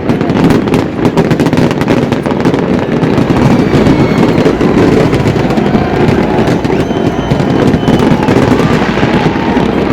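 Fireworks display: a dense, continuous barrage of bangs and crackling with no pauses, a few faint whistling tones over it.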